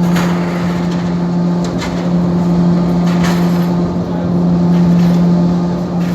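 Scania diesel engine of a Rio–Niterói ferry running at a steady speed: a loud, even drone, with a few brief clicks about two and three seconds in.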